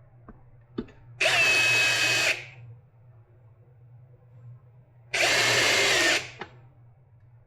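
Power drill/driver spinning in two bursts of about a second each, with a steady motor whine, driving screws back in; a couple of light clicks come before the first burst. The drill is set to drill mode rather than a clutch setting.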